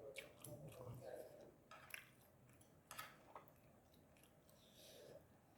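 Faint chewing, with a few scattered soft clicks and smacks.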